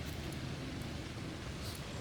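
Steady outdoor background noise: a low rumble with a hiss over it and a few faint, brief high ticks, one of them near the end.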